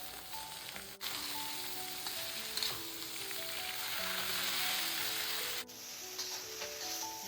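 Pumpkin shoots stir-frying in hot lard in a pan: steady sizzling, with a light background melody over it. The sizzle jumps louder about a second in.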